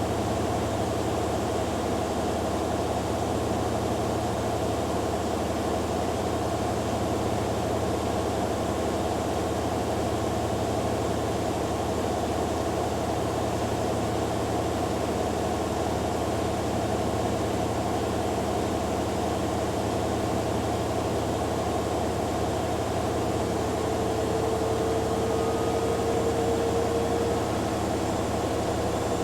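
Two front-loading washing machines, a Hoover Dynamic Next and a Beko Pro AquaTech, running their spin cycles together: a steady motor hum and drum whine with a hiss. About 24 seconds in, a higher whine rises slightly and stands out for a few seconds.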